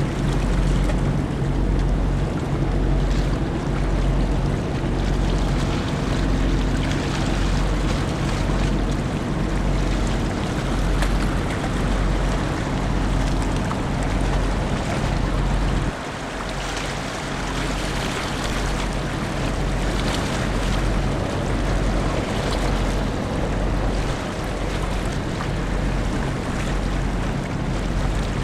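Large car ferry's engines running with a low, evenly pulsing throb, under rushing wind and water noise. The low throb and the overall level dip briefly about sixteen seconds in.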